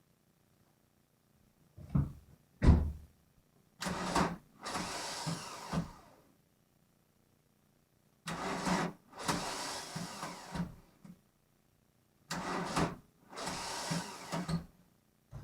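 Starter motor cranking the VW Golf mk1's cold 1.9 turbo diesel after five months of storage, in three separate bursts of about two seconds each, with regular pulses as the engine turns over without catching. This is the 'bad starter sound' of the starter and battery straining. Two sharp thumps come just before the first burst.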